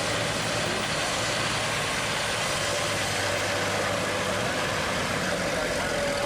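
A car engine running steadily at idle, with no revving, over an even outdoor background.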